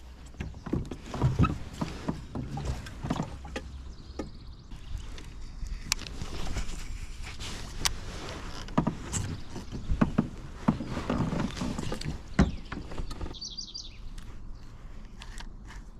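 Irregular knocks, water sloshes and handling noise from a plastic fishing kayak and the gear aboard, then a bird chirping a few quick notes near the end.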